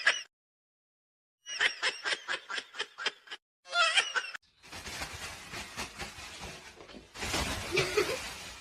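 A person laughing in quick, rapid pulses for about two seconds, with a short burst more, then a steady noisy hiss that grows louder for about a second near the end.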